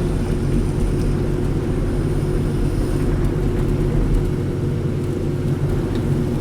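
Steady in-car road noise while driving: a low drone of engine and tyres with no sudden events.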